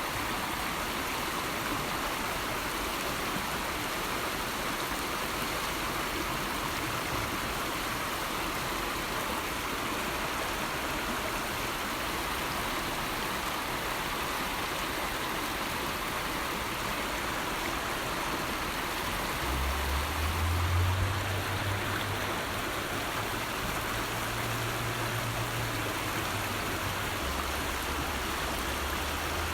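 River water flowing steadily with an even rushing sound. A low rumble joins it about two-thirds of the way through.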